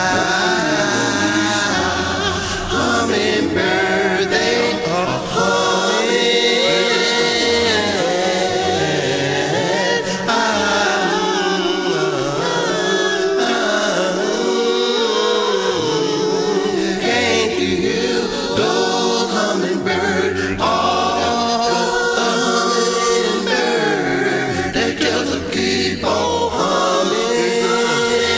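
A cappella gospel singing: voices in harmony holding long notes, over a low bass line that comes and goes.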